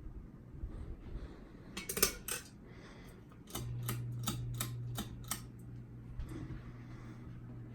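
Moss Heirloom ceiling fan motor starting up with a steady low hum, louder at first and then easing off, alongside a run of about six evenly spaced clicks from the fan's switch or housing; the owner suspects a bad capacitor.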